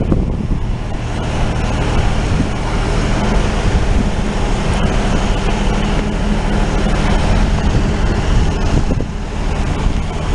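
Diesel-hauled passenger train running, heard from on board: a steady rumble with a low, even drone and wind buffeting the microphone.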